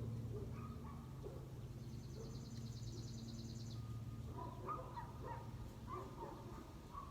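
A small songbird gives one high, rapid trill of evenly repeated notes lasting about two seconds, over a steady low hum. Short lower calls follow in the second half.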